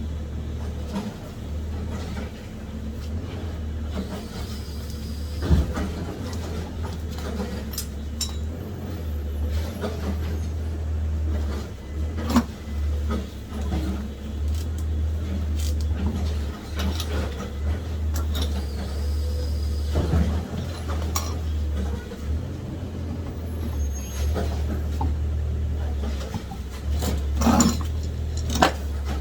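Steady low rumble with scattered clicks and knocks from hand tools and brake parts being worked on during a front brake pad change. The loudest knocks come about five seconds in and again near the end.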